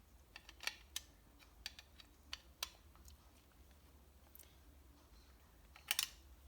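Scattered light clicks and taps of hand tools and small metal parts being handled on a workbench, as reed valve blocks are worked on, with a louder double click near the end.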